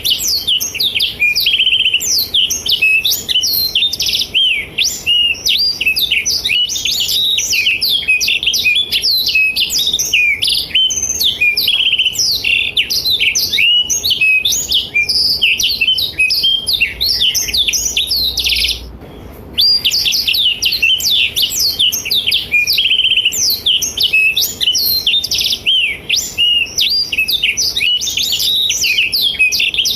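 Blackthroat (black-throated canary) singing a fast, continuous song of rapid high chirps and trills, with one short pause about two-thirds of the way through.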